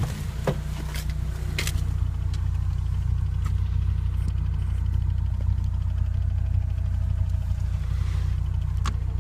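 Car engine idling steadily with a ticking noise from the engine bay, plus a few sharper clicks.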